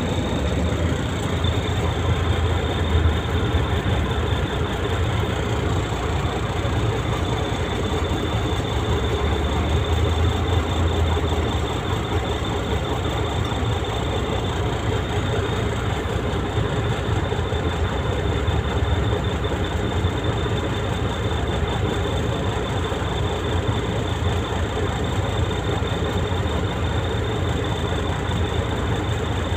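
Truck engine running steadily with a deep, even rumble and a faint steady high tone above it.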